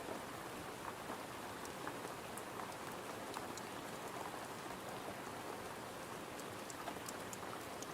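Steady rain falling on a window pane, a continuous patter with scattered light ticks of single drops.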